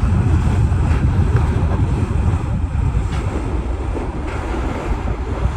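Wind buffeting the microphone over rushing water alongside a moving sailboat: a steady, loud low rumble.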